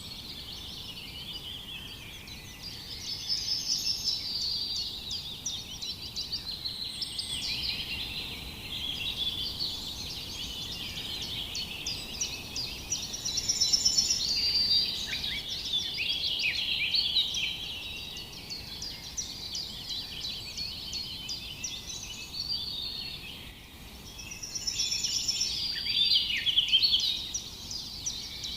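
Many small birds chirping and chattering at once, a dense overlapping chorus of short high calls. It swells louder a few times.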